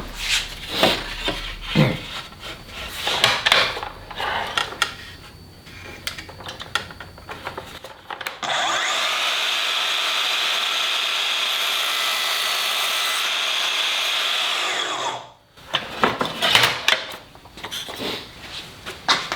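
Pieces of wood are handled and knocked about on a workbench. A little over eight seconds in, a power tool starts and runs at a steady pitch for about seven seconds, then stops abruptly, followed by more knocks and rubbing of wood.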